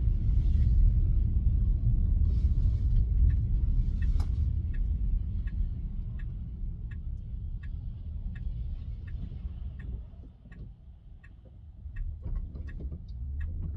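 Low road and tyre rumble inside a Tesla's cabin, fading as the car slows about ten seconds in. From about five seconds in, a turn signal ticks steadily, roughly three ticks every two seconds.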